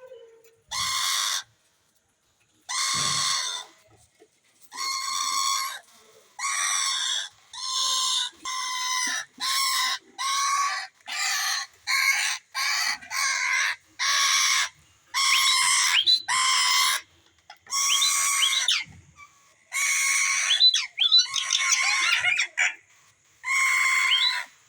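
Indian ringneck parakeets giving a long series of harsh, screeching calls, each half a second to a second long, with short gaps between them and some coming in quick runs.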